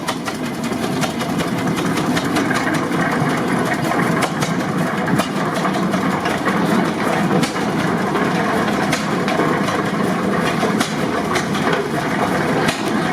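1927 Eagle 40 HP tractor engine running steadily, with a busy clatter of ticks and knocks throughout.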